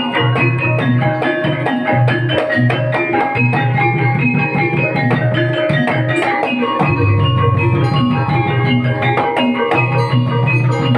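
Banyumasan gamelan music accompanying an ebeg dance: ringing tuned metal or bamboo percussion playing a busy melody over a steady, repeating low drum beat.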